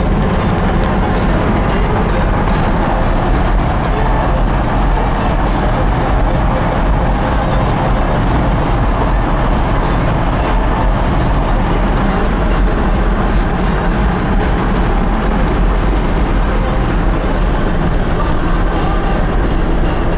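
1970 Ford Bronco on the move: a steady engine drone under road and wind noise, even throughout.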